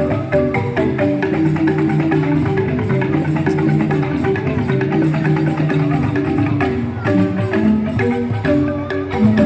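Joged bumbung gamelan music: bamboo xylophones (grantang) playing fast, dense interlocking patterns of struck notes, with percussion beneath.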